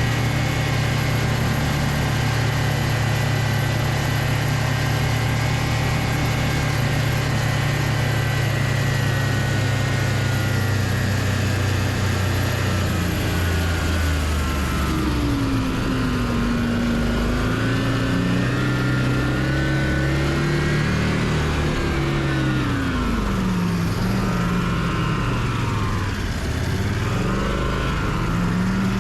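Homemade snowmobile's Loncin engine running: a steady drone for about the first half, then the engine speed rising and falling over and over as the throttle is worked.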